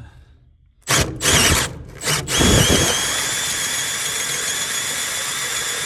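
Power drill driving a hole saw: a few short trigger blips as the saw is seated, then about two and a half seconds in it runs steadily, cutting with a high squeal. The saw is enlarging a hole through metal siding, held on track by a screwed-on plywood guide.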